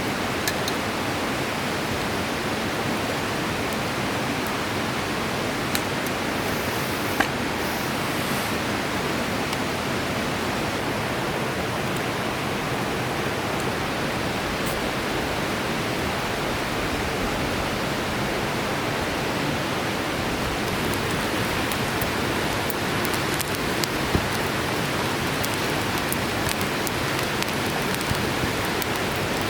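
Steady rushing of a mountain river flowing over rocks, with a few faint ticks about 7 and 24 seconds in.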